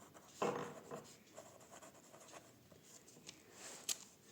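Pen scratching on paper in short strokes as words are written by hand, with a stronger stroke about half a second in and a sharp tick near the end.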